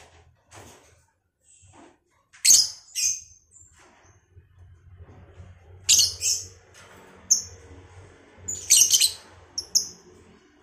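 A pair of lovebirds giving short, shrill, high-pitched chirps in clusters of two or three, a few seconds apart, over a faint low hum.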